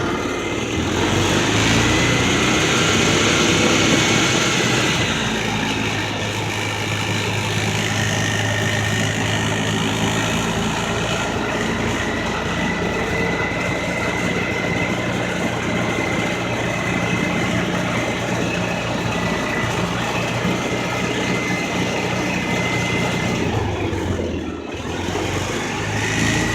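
Polaris off-road vehicle's engine running as it drives slowly along. It picks up speed in the first few seconds, then holds an even drone with a faint steady whine.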